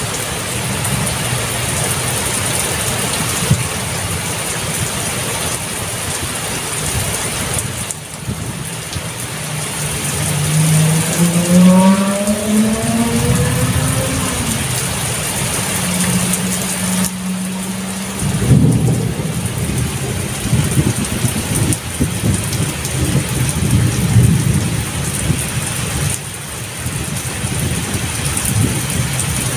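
Heavy rain falling steadily. About ten seconds in, a motor vehicle's engine rises in pitch as it accelerates, then holds a steady note for a couple of seconds. From just past the middle a low rumble runs under the rain.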